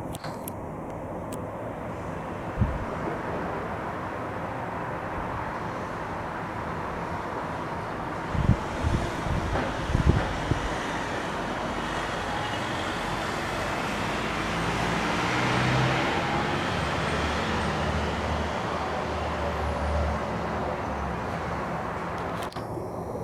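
Outdoor road-traffic noise: a steady hum of passing vehicles, swelling as an engine passes closer in the second half. A few low bumps come about eight to ten seconds in.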